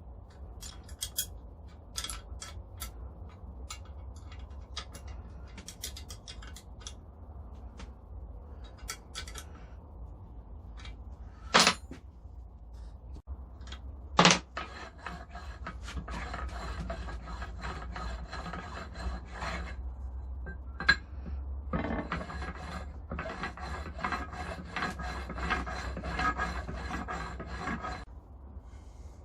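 Grinder parts being handled and fitted by hand: scattered clicks, two sharp knocks near the middle, then two long stretches of rasping rubbing.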